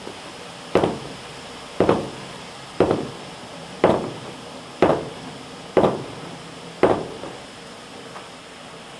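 Seven heavy knocks on the dump truck's steel bed, about one a second, each with a short ringing tail, then stopping. They knock loose the last soybeans clinging to the bed.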